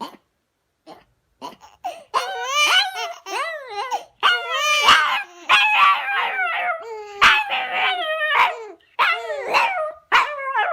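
A dog howling in a run of wavering, drawn-out calls, starting about two seconds in.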